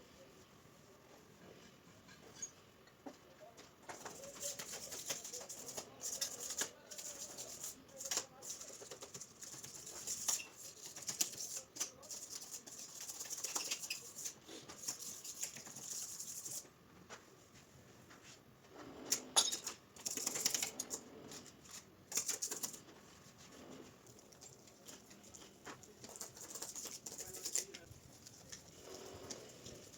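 Grouting tools scraping and rubbing across tiles in repeated irregular strokes, with quieter pauses between runs of strokes.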